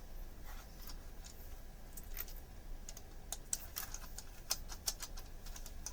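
Light, irregular clicks and taps of small 3D-printed plastic parts being handled and fitted together.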